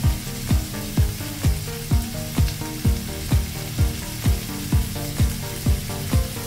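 Cabbage and bell pepper sizzling in a wok with a steady hiss, under background music that has a steady kick-drum beat about twice a second.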